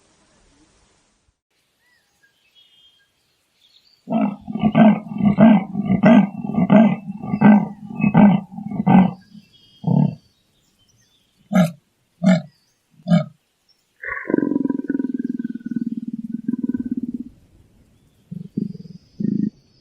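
A large animal's deep calls: a run of grunts about two a second, slowing to a few single grunts, then one longer drawn-out call.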